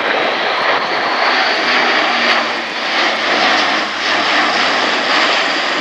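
Airbus A400M Atlas's four Europrop TP400 turboprop engines and propellers in flight, a loud, steady rush of noise. A faint low hum comes in about halfway through.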